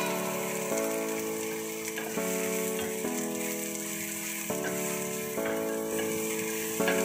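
Sliced onions and garlic sizzling in hot oil in a wok, stirred and turned with a spatula. Background music with sustained chords plays underneath.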